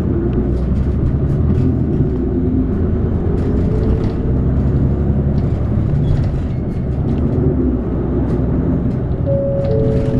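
City bus under way, heard from inside the passenger cabin: a steady low engine drone with road rumble. A brief steady tone sounds near the end.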